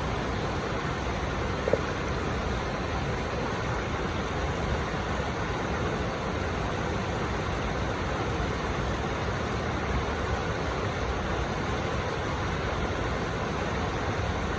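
Steady rushing of flowing water, an even roar with no swells, with one brief sharp blip a little under two seconds in.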